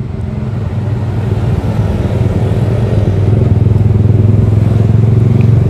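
Yamaha R15 V3's 155 cc single-cylinder engine running through a Daytona Evolution aftermarket exhaust, a deep, bassy note that grows louder over the first three seconds and then holds steady.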